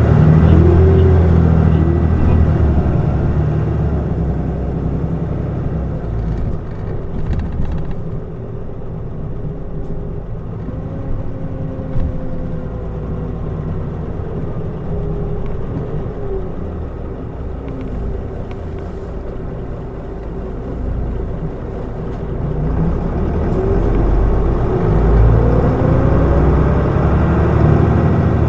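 Mitsubishi Fuso Aerostar city bus (QKG-MP35FP) under way, its diesel engine and drivetrain running loud with changing whine lines near the start. The sound eases to a quieter, steady run through the middle, then grows louder again with pitch climbing near the end as the bus accelerates.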